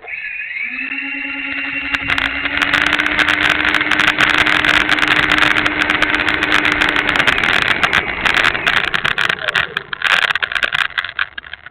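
Twin 64 mm electric ducted fans of an E-flite A-10 Thunderbolt II RC jet spooling up suddenly and running with a steady whine. The fans' tone settles within the first second and holds until about seven seconds in. The owner says one of the fans has a bad motor.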